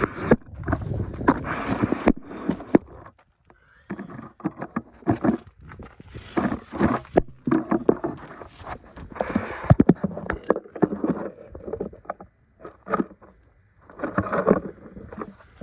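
Irregular clicks, knocks and rustling of hand tools and parts being handled while reaching for a bolt on the engine.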